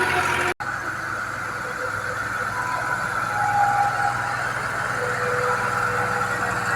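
Tractor's diesel engine running steadily, with a momentary cut in the sound about half a second in.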